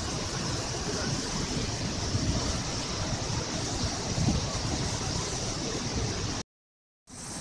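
Steady rushing of a waterfall, with rumble from wind on the microphone. Near the end it cuts to silence for about half a second, then resumes.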